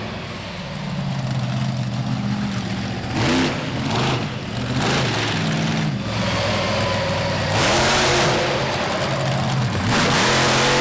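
Monster truck engine revving hard up and down over and over, with several loud full-throttle blasts during a freestyle run.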